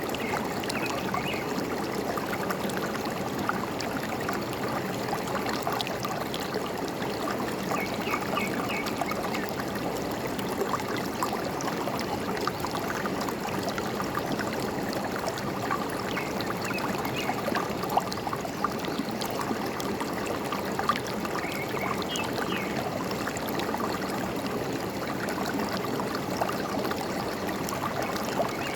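A forest stream trickling and gurgling steadily, with short bird chirps heard a few times over it.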